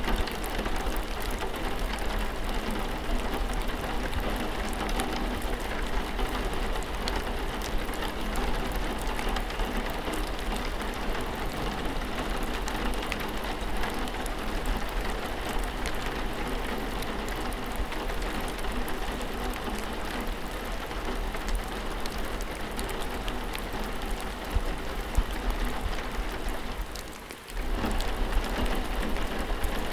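Steady rain falling on surfaces, with the patter of individual drops. The sound dips briefly about three seconds before the end, then returns at the same level.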